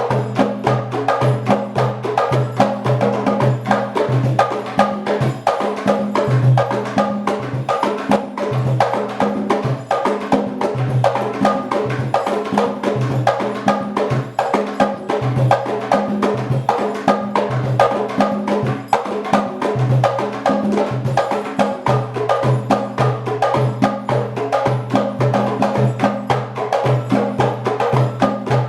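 Afro-Cuban percussion ensemble playing a fast, dense rhythm: many sharp strikes over a low drum tone that sounds again and again at even intervals.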